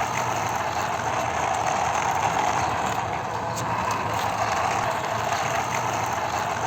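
Toy vehicle's small motor and plastic gears whirring steadily.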